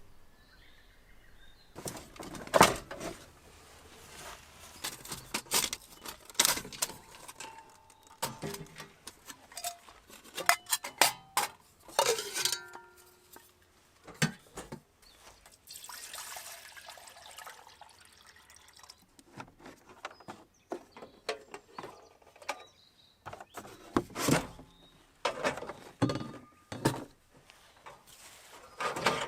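Camp-cooking handling sounds: irregular clinks, knocks and clatter of pots, utensils and containers, with a stretch of liquid pouring partway through.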